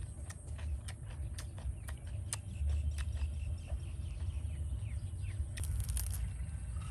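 A person chewing a mouthful of grilled pork intestines, with irregular sharp mouth clicks and smacks over a low rumble.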